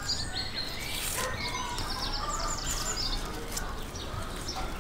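Small birds chirping, in quick runs of short high notes, over a steady low background noise.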